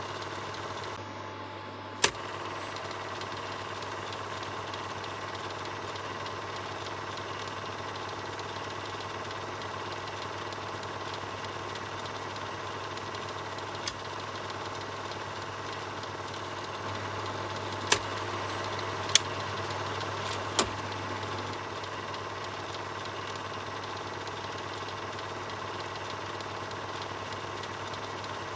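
Film projector running with a steady mechanical whir and low hum, broken by a few sharp isolated clicks, one about two seconds in and a cluster around the two-thirds mark.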